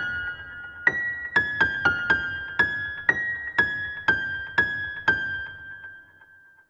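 Music: a keyboard playing a slow line of single high notes, about two a second, each ringing on, dying away to silence near the end as the song closes.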